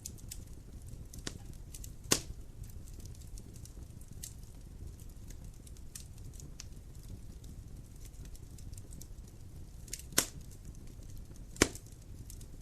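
Wood fire burning in a fireplace: a low steady rumble under constant small crackles, with three louder pops, one about two seconds in and two near the end.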